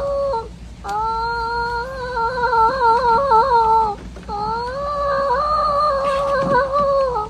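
A man's high-pitched, drawn-out vocal calls in imitation of chicken talk, used to herd chickens inside: one call ends about half a second in, the next wavers with quick warbles, and a third is held long and steady near the end.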